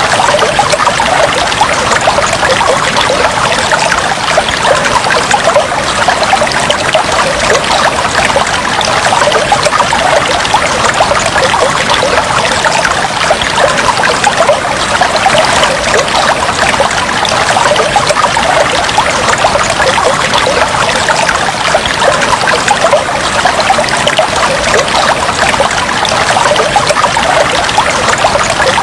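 Fish tank water trickling and bubbling steadily: a dense, even patter of small bubbles and splashes.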